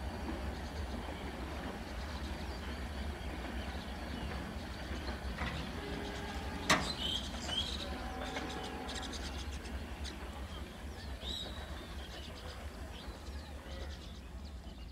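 Low, steady rumble of a crowded passenger train coming slowly along the track, with birds chirping and a sharp click about seven seconds in.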